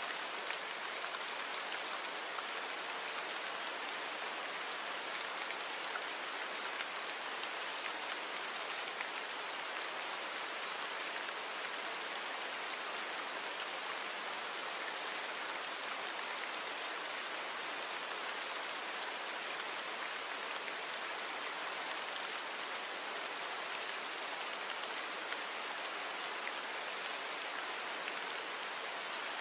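Steady rainfall, an even hiss of many small drops with no single drops or thunder standing out.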